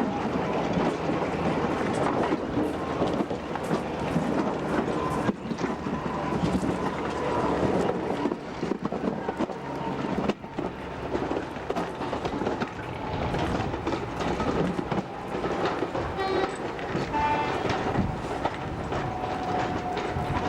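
Train hauled by a diesel-hydraulic locomotive running along the line, with the steady noise of the train and wheels clicking over rail joints. A short pitched sound comes about sixteen seconds in.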